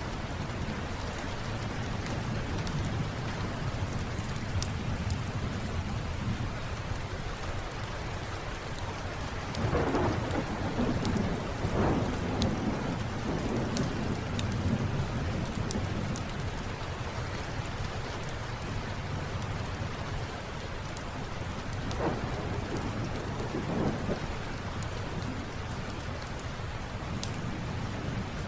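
Steady rain falling, with low rumbles of thunder swelling up about a third of the way in and again about three quarters through. Small sharp crackles from a fireplace are scattered throughout.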